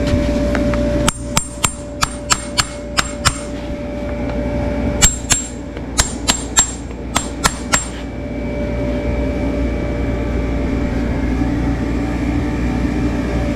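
Hammer tapping in two quick runs of about eight sharp, ringing strikes each, with a pause between, over a steady mechanical hum.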